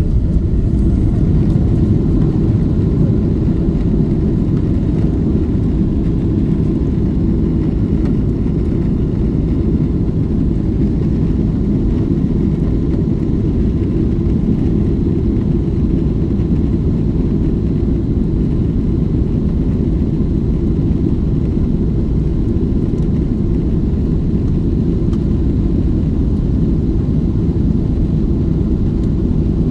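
Boeing 777-300ER's GE90 jet engines and rushing air heard inside the cabin during takeoff: a loud, steady low rumble.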